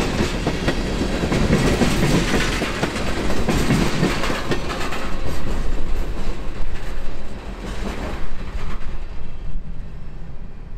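Freight train of tank cars rolling past, steel wheels clattering on the rails. The sound drops off about seven seconds in as the last car goes by, then fades into the distance.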